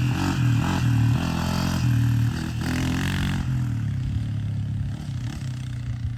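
Honda CRF250 dirt bike's single-cylinder four-stroke engine revving on and off the throttle as it is ridden, its pitch stepping up and down, then fading somewhat over the last couple of seconds.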